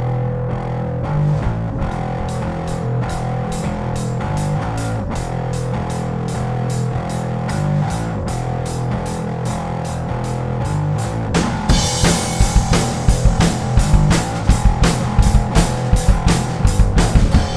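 Instrumental intro of a rock song: electric bass holding a riff over evenly spaced cymbal ticks, with the full drum kit coming in louder about twelve seconds in.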